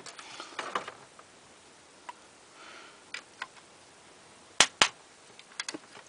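Sharp clicks and knocks of hand tools and metal parts being handled while a burnt-out box fan motor is taken apart. The loudest is a pair of sharp clicks a quarter second apart about two-thirds of the way through, with a few lighter taps near the start and just after.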